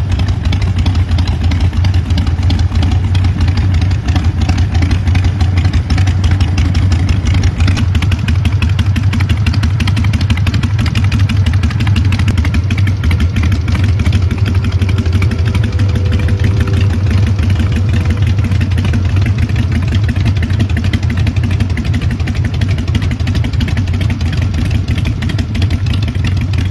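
Harley-Davidson motorcycle's V-twin engine running steadily with an even, deep pulsing beat and no big revs.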